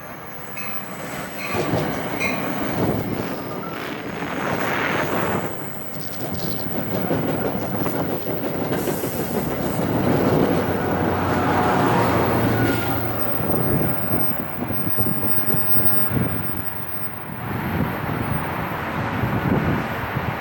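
A train passing on the track, its cars and wheels rumbling steadily, swelling and easing over the span.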